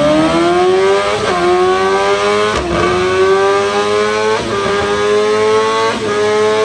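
Sportbike engine at full throttle, accelerating hard through the gears: the engine note climbs, drops briefly with a click at each of four quick upshifts, then climbs again more slowly in each higher gear.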